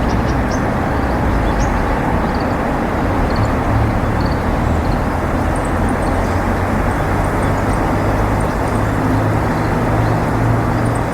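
A steady low rumble, with faint high bird chirps now and then.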